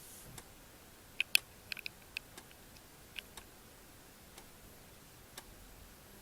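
A few faint, irregular small clicks and ticks in a quiet room, bunched in the first half, then sparser.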